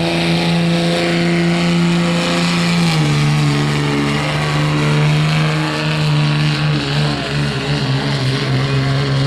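A pulling vehicle's engine running hard and steady under load during a pull. Its pitch drops a step about three seconds in and then holds.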